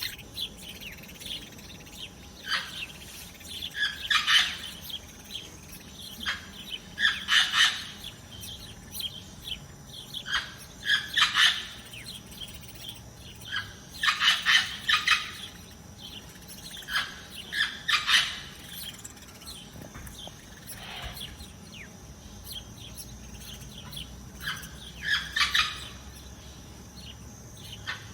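Small songbirds chirping in short bursts of quick high notes, one cluster every couple of seconds.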